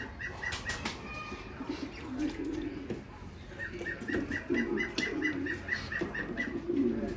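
Pigeons cooing in low, wavering calls, with wing flaps. Twice a fast run of short, high chirps sounds over them, about six a second.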